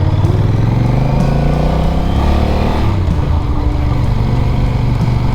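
Motorcycle engine running on the move, its note falling over the first few seconds as the bike slows, then running steadily at lower revs.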